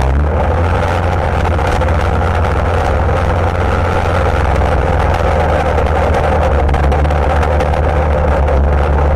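ATV engine running steadily and loudly at an even pitch.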